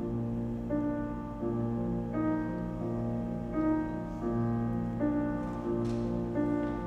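Solo piano playing a song introduction: chords struck in an even pulse about every 0.7 s, each left to ring.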